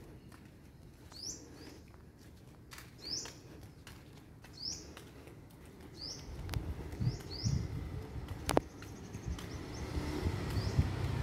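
A small bird repeating a short, high, rising chirp every second or two. From about six seconds in, the low rumble of an approaching road vehicle grows steadily louder, with a single sharp click about eight and a half seconds in.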